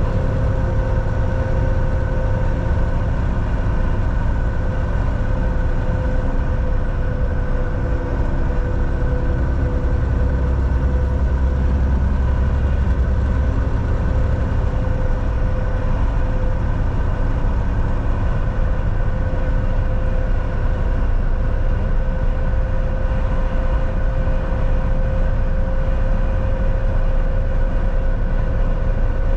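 Volvo VNL 760 semi truck cruising on the highway, heard from the driver's seat: a steady low engine drone with road noise and a faint steady hum. The low rumble swells for a few seconds about ten seconds in.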